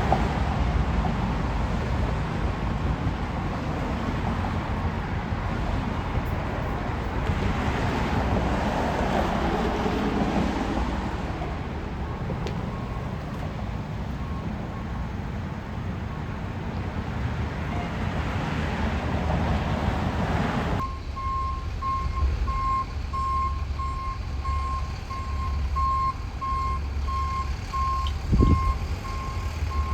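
Fire truck's engine running with its reverse alarm beeping in a steady on-off rhythm as it backs up; the beeping comes in partway through and is clearest in the second half. A single short knock sounds near the end.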